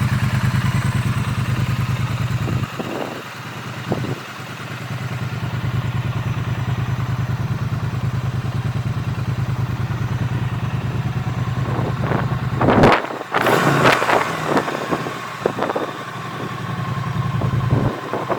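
Triumph Street Twin's 900 cc parallel-twin engine idling with a steady, even low beat. The idle sound drops away briefly about three seconds in. About two-thirds of the way through it drops away again, while a few sharp knocks and some clatter are heard, before the idle returns near the end.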